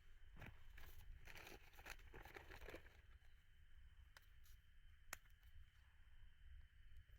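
Faint rustling and crinkling, strongest from about one to three seconds in, with a few light clicks and a faint steady high tone in the background.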